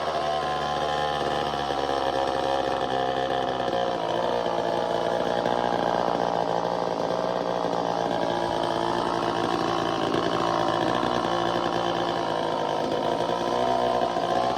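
Two-stroke engine of an early-1970s Poulan-built Craftsman chainsaw running on its own after being revived. Its pitch settles down at the start, then it idles steadily.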